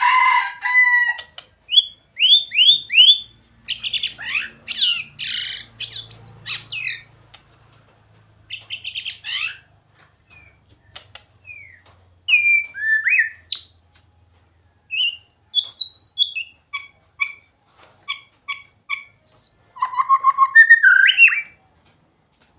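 White-rumped shama singing: varied phrases of clear whistles, quick rising and falling notes and rapid trills, separated by short pauses.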